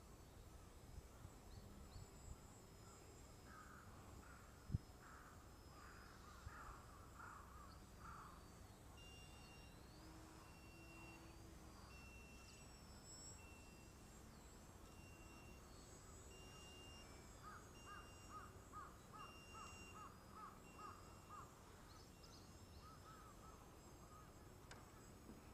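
Faint outdoor ambience: wind rumbling on the microphone and birds calling, with two runs of quick repeated calls. A single sharp click comes about five seconds in.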